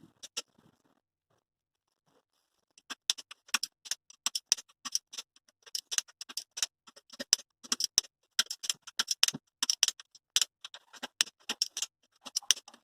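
Rapid, irregular sharp metallic clicks and taps of hand tools on engine parts, several a second, starting about three seconds in after a brief lull.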